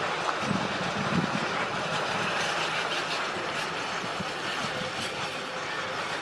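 Heavy asphalt paving machinery running steadily: a continuous mechanical clatter with a dense scatter of small ticks.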